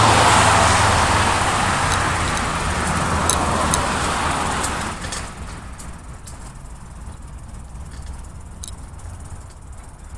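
A car driving past close by, its tyre and engine noise loud at first and then dropping away sharply about five seconds in, leaving quieter background traffic and a few faint ticks.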